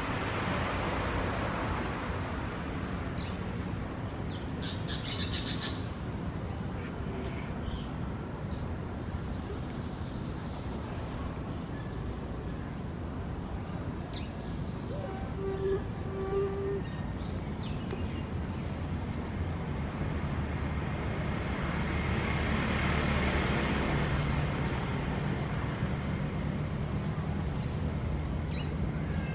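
Orange-chinned parakeet giving short clusters of shrill, very high chirps, repeated every few seconds over a steady low background rumble.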